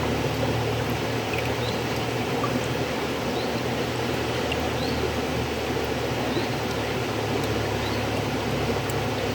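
River water flowing and rushing in a steady, unbroken wash of noise.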